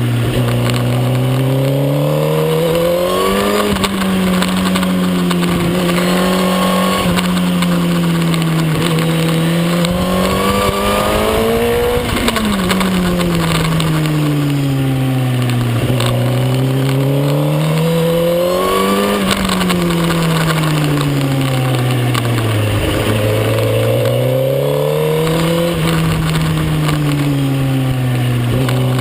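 Suzuki GSX-R1000 K9's inline-four engine heard from on board at racing speed. Its pitch climbs and falls in long smooth swings every few seconds, over a steady rush of wind and road noise.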